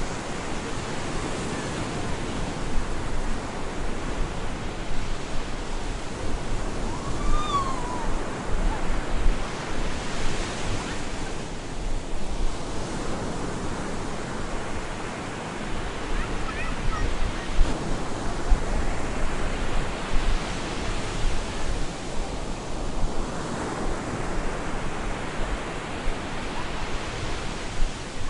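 Stormy surf breaking on a beach with wind: a continuous rush of waves that swells and eases as each wave breaks.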